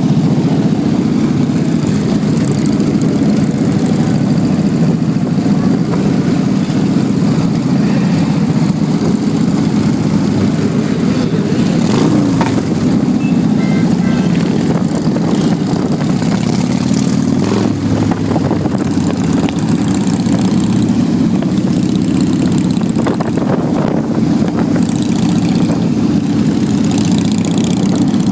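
Motorcycle engine running steadily, a continuous low engine sound at an even level, with a couple of brief clicks about halfway through.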